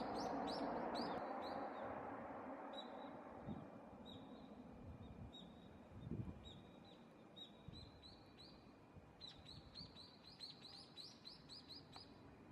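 Common kingfisher calling: a series of short, high, piercing notes, spaced out at first and coming in a quick run near the end, over background noise that fades during the first couple of seconds.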